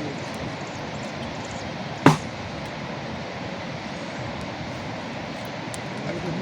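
Steady hiss of rain, with one sharp knock about two seconds in.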